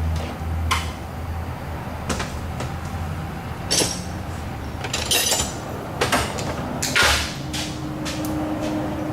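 Hand tools clicking and scraping on metal, irregular short clicks and a longer scrape about seven seconds in, as a thread tap is worked through the cylinder head's exhaust manifold bolt holes to clean up damaged threads; a steady low hum runs underneath.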